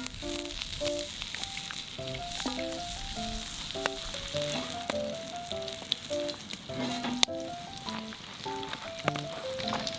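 Food sizzling and frying in a hot pan: a steady crackling hiss with scattered sharp pops. A light background melody of short plucked notes plays under it.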